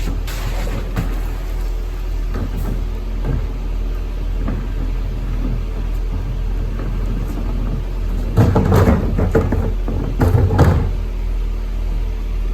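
Garbage truck engine running steadily with a low rumble, with two louder rough bursts of mechanical noise about eight and ten seconds in.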